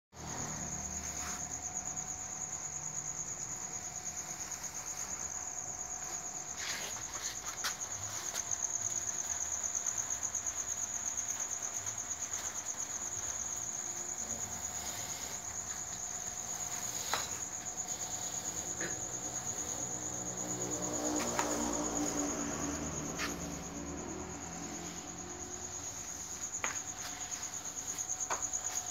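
Insects trilling continuously at a high pitch, with a few scattered clicks. A low swell of sound rises and fades around twenty-one seconds in.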